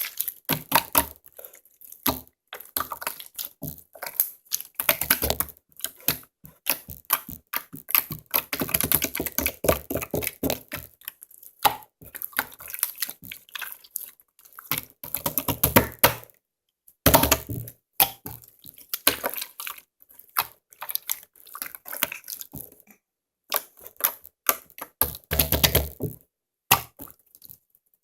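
Hands squishing and pressing slime, making rapid, irregular runs of crackling clicks and pops in bursts with short pauses.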